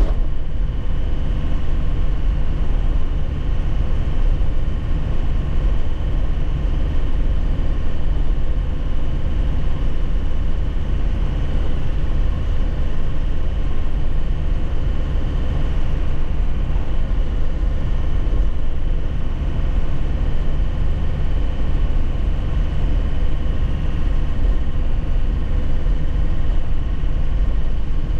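2001 Nissan Cabstar light truck's diesel engine running at a steady speed on the move, with a deep road rumble and no gear changes.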